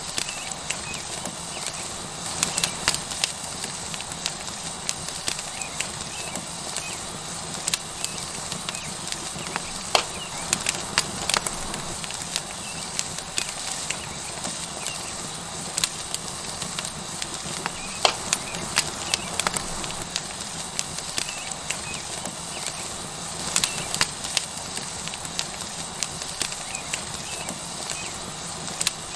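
Tomahawk steak sizzling on a hot stone over a wood fire: a steady sizzling hiss with sharp, irregular crackles and pops from the burning wood.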